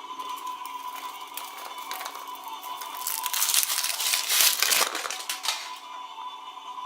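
Toy packaging wrapper crinkling and tearing as it is handled and opened, with a louder, denser burst of crackling from about three seconds in.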